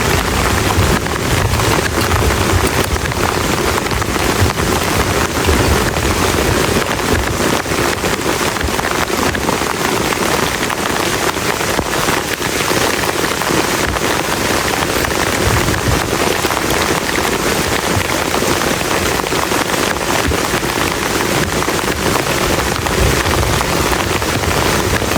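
Heavy rain falling steadily on a camp shelter, a dense, even patter of many drops.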